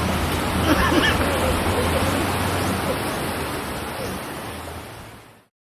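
Steady rush of falling water with faint voices about a second in, fading out over the last second and a half and ending abruptly.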